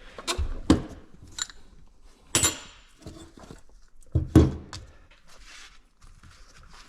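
Metal engine parts clinking and knocking as they are handled on a workbench: a series of separate sharp knocks, one with a short metallic ring about two and a half seconds in, and the loudest pair a little past four seconds.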